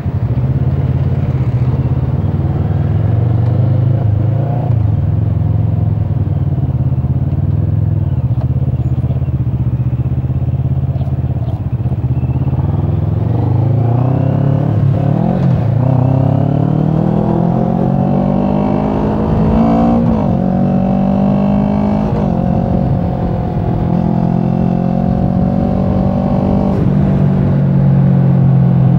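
Motorcycle engine heard from the rider's seat: running steadily at low revs at first, then revving up in rising pitch from about halfway, the pitch dropping twice as gears are shifted, and settling into steady cruising near the end.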